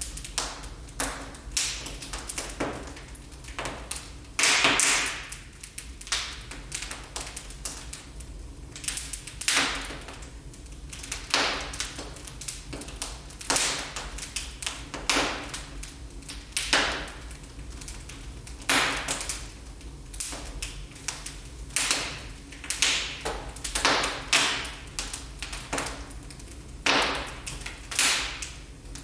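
Wood fire burning in a fireplace, crackling with irregular sharp pops and snaps, some louder than others.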